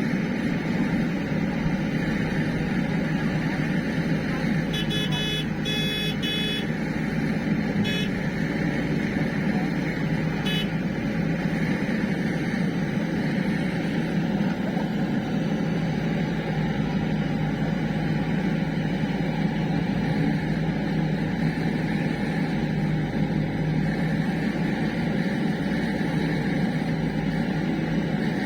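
Heavy diesel machine engine running steadily, with a few short high-pitched beeps about five to six seconds in.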